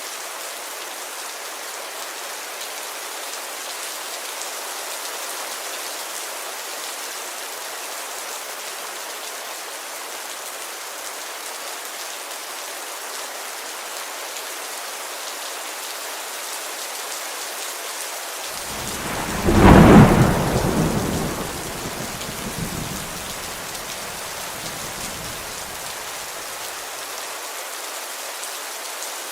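Steady heavy rain hissing against a window. About two-thirds of the way in, a clap of thunder cracks and rumbles loudly, then dies away over several seconds.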